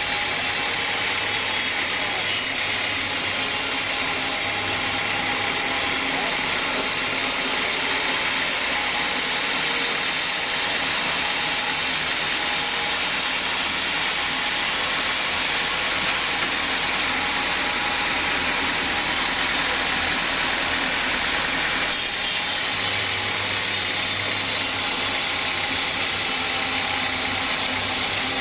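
Sawmill saw running steadily on a teak log: a dense, even machine noise with a strong hiss, shifting slightly about three-quarters of the way through.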